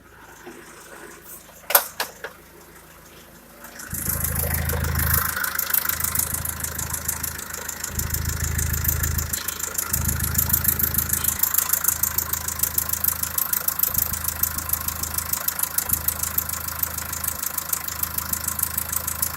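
Fiat Ducato 3.0-litre four-cylinder turbodiesel (F1CE0481D) being started: a couple of sharp clicks, then the engine catches about four seconds in and settles into a steady idle.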